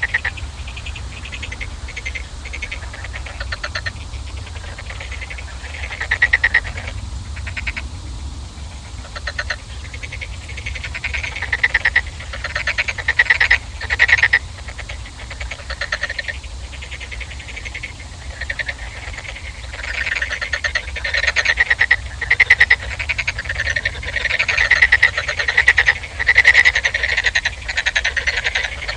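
A chorus of frogs calling, with rapid pulsed croaks repeating and overlapping, growing louder and denser towards the end. A steady low rumble runs underneath.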